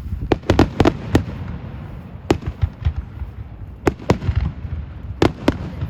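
Fireworks display going off: a quick run of sharp cracks about a second in, single reports around the middle, and another run near the end, over a steady low rumble of booms.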